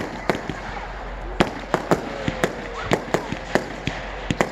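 Fireworks going off: an irregular string of sharp cracks and bangs, a dozen or more within a few seconds.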